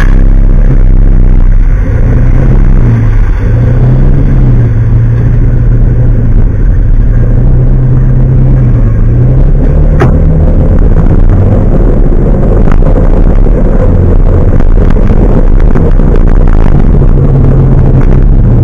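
A large truck's engine running loudly, its low pitch rising and falling a little as the revs change. There is a single sharp click about ten seconds in.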